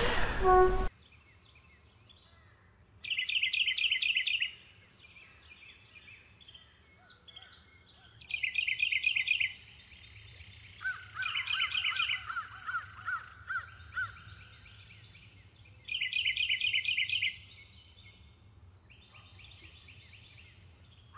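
Birds calling: four bursts of rapid, high trilled notes, each a second or so long, with a slower run of rising notes about halfway through, over a faint steady high-pitched tone.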